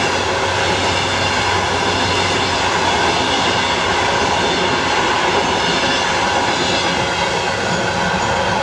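Passenger coaches of an express train rolling past at speed: a loud, steady rush of wheels on rail.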